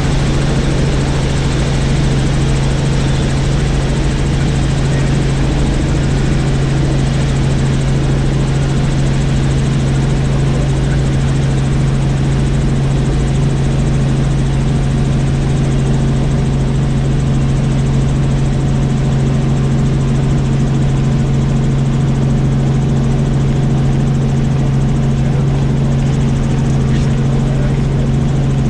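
Helicopter in flight: a steady engine and rotor drone with a strong, even low hum.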